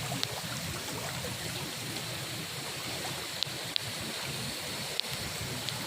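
Floodwater rushing steadily, an even hiss with a few short sharp clicks.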